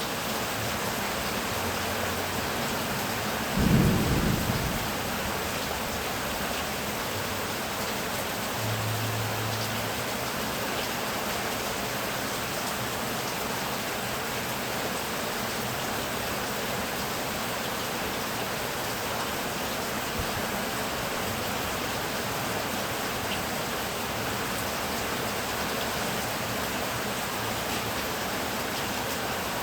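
Heavy rain falling steadily, with one short, deep thunderclap about four seconds in.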